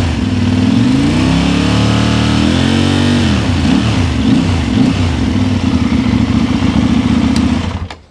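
KTM 890 Duke's parallel-twin engine through an Akrapovič exhaust, revved up and down in a longer rise and hold, then a series of quick blips. The sound cuts off abruptly near the end.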